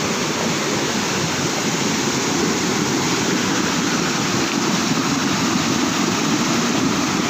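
Small waterfall's rushing water, a loud steady hiss with no break.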